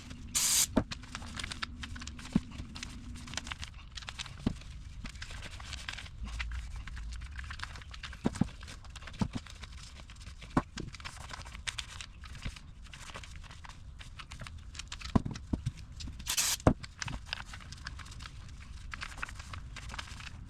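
Rag wiping down motorcycle velocity stacks: rubbing and rustling with scattered clicks and knocks as the parts are handled and set down. Two short hissing bursts come just after the start and again about 16 seconds in.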